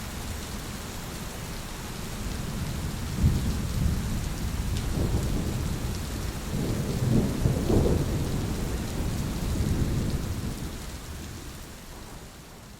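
Thunderstorm: steady rain with a low roll of thunder that builds a few seconds in, peaks in the middle and fades away toward the end.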